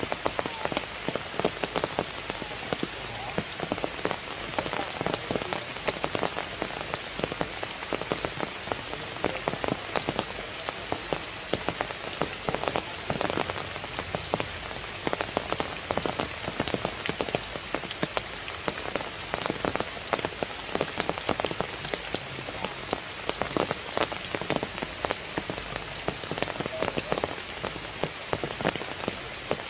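Heavy rain falling steadily, with frequent sharp taps of individual drops landing close by.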